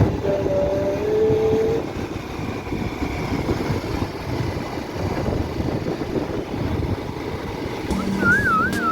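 Steady rumbling road and wind noise from riding a motorbike in traffic, with a held tone in the first couple of seconds. Music with a wavering melody comes in near the end.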